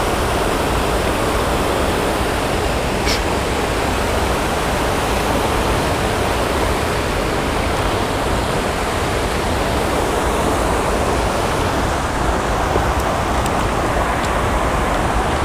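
Water pouring over a small creek spillway waterfall: a steady, unbroken rushing.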